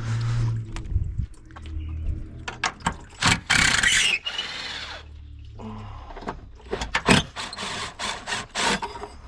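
Clicks, knocks and clatter of hand tools and metal parts being handled in a car's engine bay, with one loud, harsh burst of noise about a second long some three and a half seconds in.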